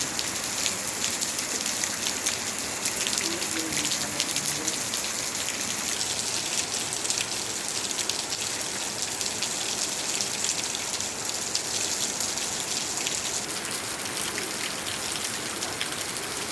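Steady rain falling, with dense fine ticks of drops striking hard surfaces.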